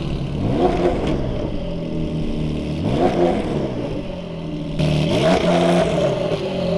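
A 2020 Porsche 992 Carrera 4S's 3.0-litre twin-turbo flat-six, running a Stage 1 tune and aftermarket downpipes, idling and revved three times. Each blip rises and drops back to idle: about half a second in, about three seconds in, and about five seconds in.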